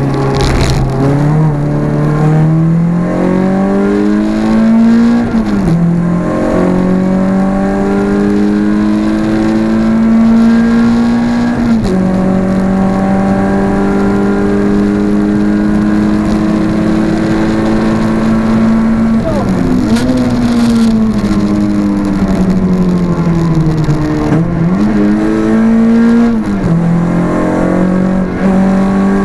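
Renault Clio 172's 2.0-litre four-cylinder engine under hard acceleration, heard from inside the cabin. The revs climb and drop sharply at upshifts about 6 and 12 seconds in, then fall away with downshifts for a corner around 19 to 25 seconds before climbing again.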